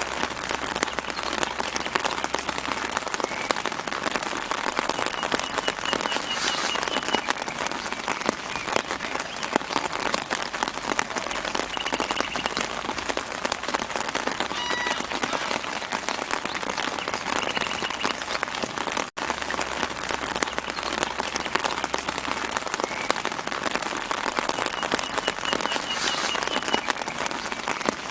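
Steady light rain pattering on leaves and the ground, with a few faint, short bird calls in the background. The sound drops out for an instant about 19 seconds in.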